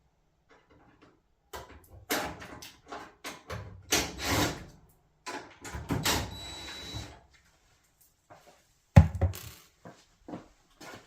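Dryer cabinet panels and screws being worked on: a series of clicks, knocks and scrapes, a short steady whir about six seconds in, and a sharp knock about nine seconds in, the loudest sound.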